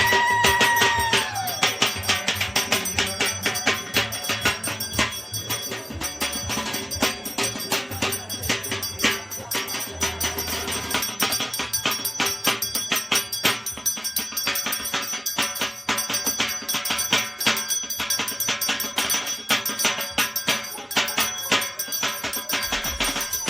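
Sandhya arati music: fast, dense dhak drumming with clanging metal percussion and bells. A conch shell's held note falls off and stops about a second in.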